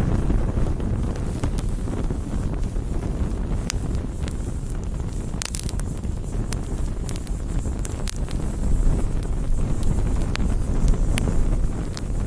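Wood campfire burning: a steady low rumble with scattered sharp crackles and pops of burning wood, a quick cluster of pops about five seconds in.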